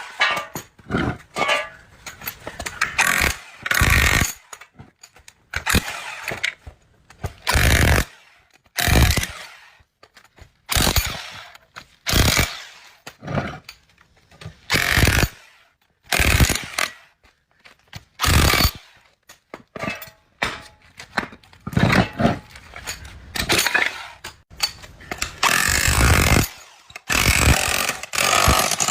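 A power tool run in short, irregular bursts, about a dozen of them with gaps between, while an induction motor is taken apart.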